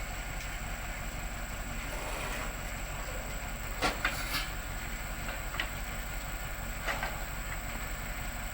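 Heavy machinery running steadily, with a few short sharp metallic knocks about four, five and a half and seven seconds in.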